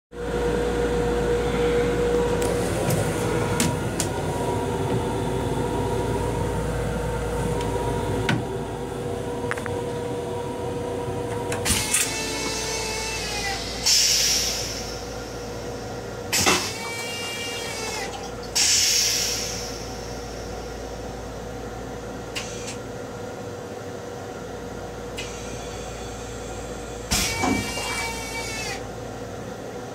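Inside the restroom of a Long Island Rail Road M7 railcar: a steady rumble and hum, with a few sharp clicks and short bursts of hissing about halfway through. Near the end the toilet flushes, with water rinsing down the stainless-steel bowl.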